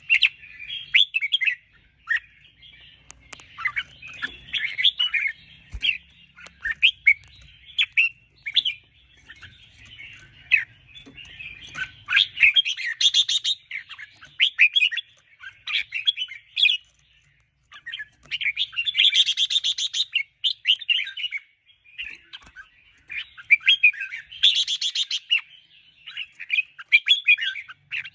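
Red-whiskered bulbul singing in quick, chattering runs of chirped and whistled notes, with three louder, fuller bursts spread through the middle and latter part.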